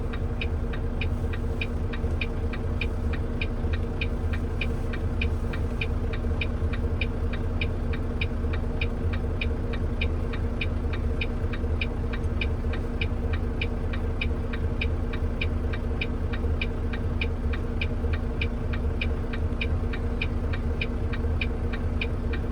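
Turn-signal indicator ticking steadily inside a semi truck's cab, about two to three ticks a second, over the steady drone of the truck's engine.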